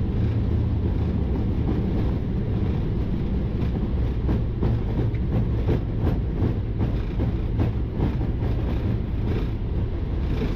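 Boeing 777-300ER rolling out on the runway under manual braking after touchdown: a steady low rumble of tyres and airframe with irregular knocks and jolts from the runway surface.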